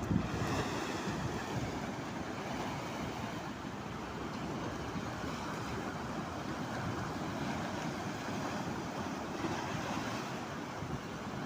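Sea waves with wind buffeting the microphone: a steady rushing noise.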